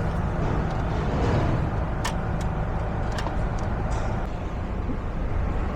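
Steady low mechanical rumble with a few light clicks, about two and three seconds in.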